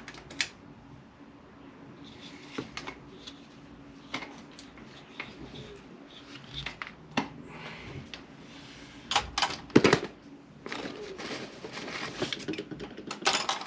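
Irregular clicks, taps and knocks of hand tools and small parts being handled on an RC car chassis while stuck screws are worked on, busiest and loudest in the second half.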